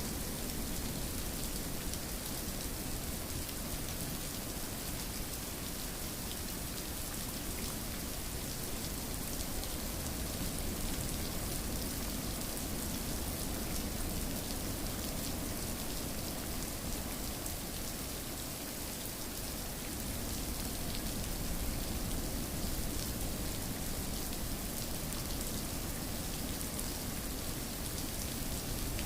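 Steady rain falling, an even hiss with fine ticks of individual drops.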